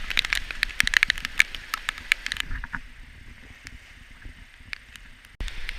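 Water splashing and dripping: a dense run of sharp drips and splashes for the first two seconds or so, then thinning out to scattered drops.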